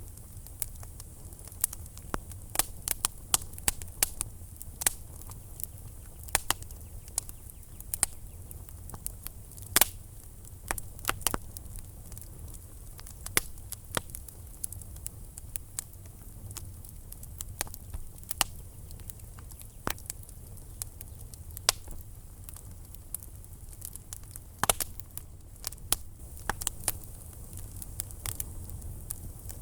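Wood fire burning in a fireplace, crackling and popping at an irregular pace over a steady low rumble of the flames.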